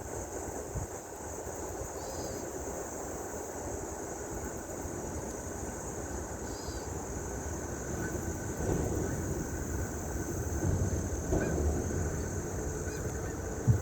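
Wind rumbling on the microphone over a faint steady high hiss, the rumble growing stronger in the second half. A single sharp knock comes right at the end.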